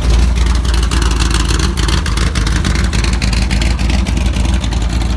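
Classic car's engine running loudly, a steady low rumble of rapid firing pulses.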